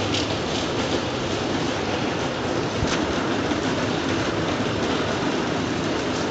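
Steady rain recording, an even hiss over a low rumble, with a faint tick about three seconds in.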